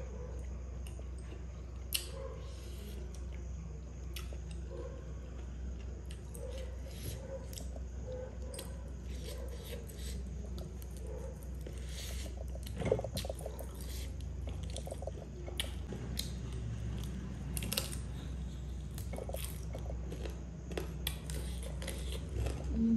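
Close-up eating sounds: biting and chewing fried chicken held in the hand, many small irregular clicks and mouth smacks.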